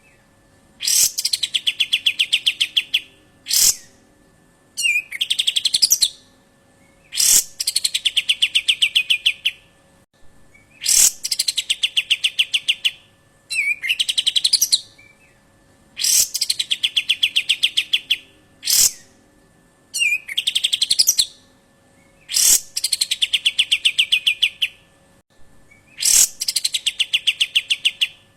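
A bird repeating the same call about every three seconds: a short note, then a fast rattling trill that falls in pitch, with a sharp click between phrases. It is a masteran tutor recording played over and over to teach cage birds.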